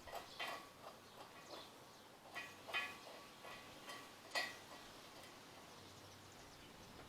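A few faint, short metallic clicks and clinks, with long pauses between them, as a crane mounting bolt with its washer and nut is fitted by hand.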